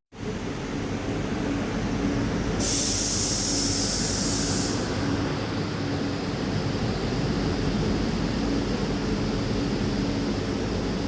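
Jakarta LRT light-rail train running, with a steady electric-drive hum and a sharp pneumatic hiss lasting about two seconds, starting between two and three seconds in.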